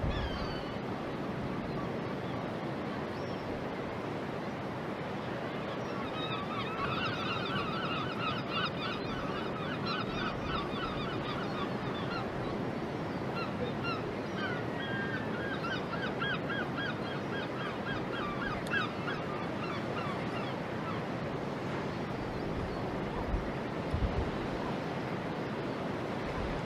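Gulls calling in two long runs of rapid repeated, honking notes, over a steady wash of harbour background noise.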